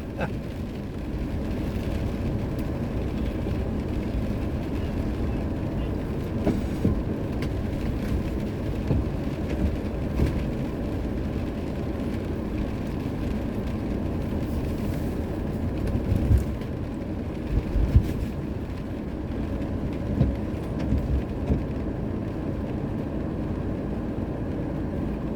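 Steady low rumble of a vehicle running, with a few low knocks about two-thirds of the way through.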